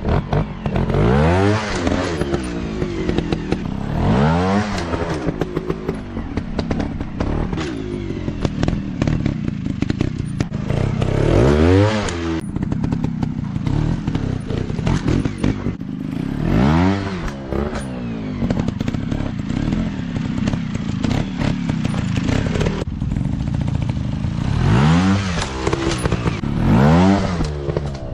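Dirt bike engine revving up and dropping back again and again, its pitch swelling and falling every few seconds over a steady running drone, with some clatter.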